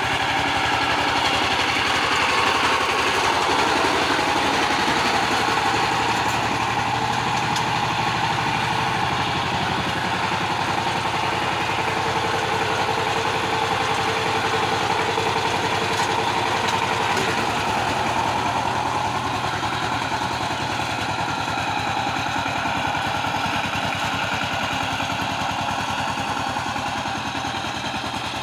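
Power tiller (two-wheel hand tractor) engine running steadily at a constant speed, its rapid firing beat unchanging.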